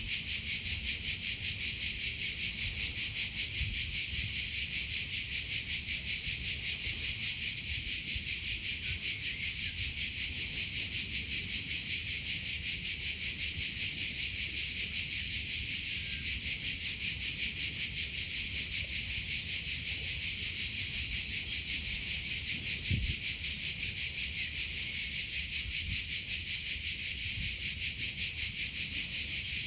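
Crickets chirping in a steady, high-pitched, rapidly pulsing trill.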